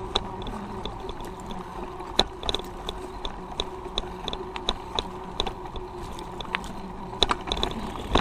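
Road bike being ridden: steady riding noise with a regular light clicking, about two to three clicks a second.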